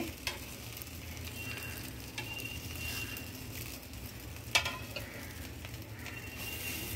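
Bread rolls sizzling steadily in shallow oil on a flat iron griddle (tawa) over a low-to-medium gas flame while they are turned with knives. Sharp metallic clicks of knife blades on the griddle come just after the start and again about four and a half seconds in.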